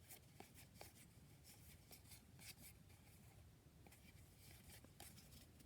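Near silence with faint rustles and scattered light ticks of baseball trading cards being handled and flipped through one after another.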